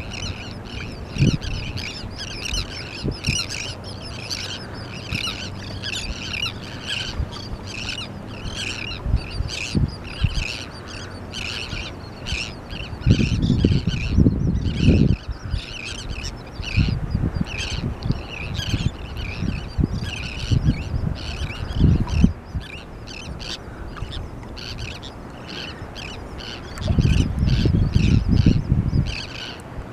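A large feeding flock of seabirds, terns and gulls, calling without a break in a dense chatter of short, high squawks. Low rumbling bursts come about halfway through and again near the end.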